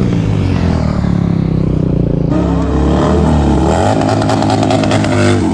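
Motorcycle engine revving, its pitch rising and falling, with a rapid rattling clatter over it from about two seconds in until near the end.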